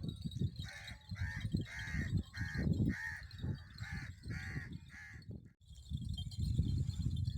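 A crow cawing about eight times in quick succession, roughly two harsh calls a second, then stopping, over a low rumble.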